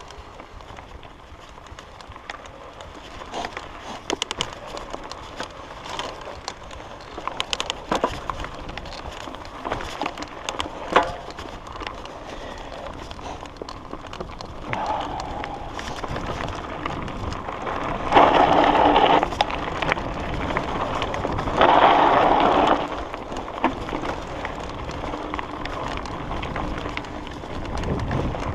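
Mountain bike riding down a dirt trail: tyres crunching over loose dirt and rocks, with frequent clattering knocks and rattles from the bike. Two louder, rougher stretches of a second or so come about two-thirds of the way in.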